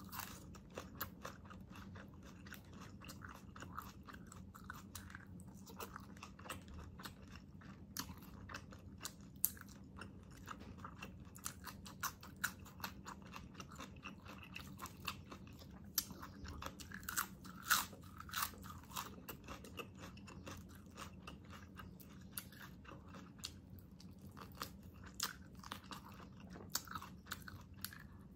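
A person chewing and crunching food close to the microphone, with many irregular sharp crunches and wet mouth clicks: bites of a raw green onion stalk, then braised pork adobo, eaten for eating-sound ASMR.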